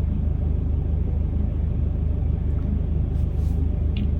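A vehicle engine idling: a steady low drone.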